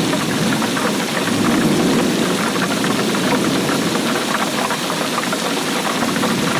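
Steady rainfall: a dense wash of close, individual drop hits with no break.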